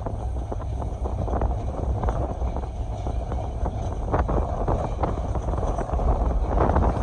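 Wind buffeting the microphone over the low rumble and irregular clatter of a passenger train running at speed.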